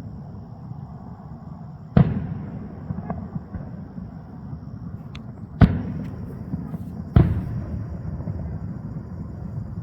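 Aerial fireworks shells bursting at a distance: three loud booms about two seconds, five and a half seconds and seven seconds in, each followed by a rolling rumble, with a few fainter cracks between them.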